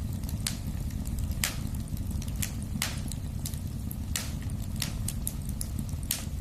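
Wood fire burning in a fireplace: a steady low rumble of flame with sharp crackling pops and snaps about once a second.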